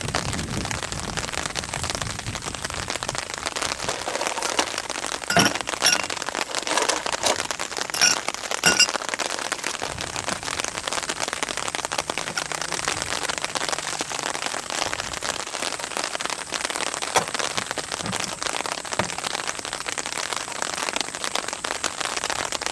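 Steady light rain pattering on surfaces around the camp, with a few sharp clicks and taps about five to nine seconds in.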